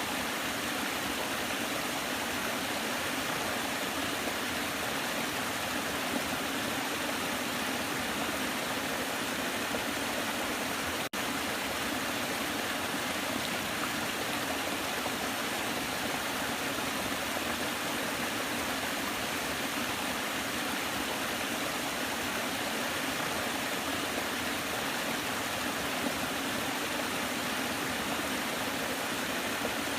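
Waterfall: a steady rushing of falling water, with one very short drop in level about a third of the way through.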